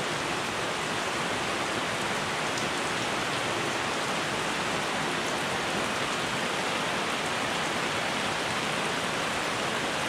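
Heavy rain pouring straight down with little wind: a steady, even hiss of rain on the ground and foliage.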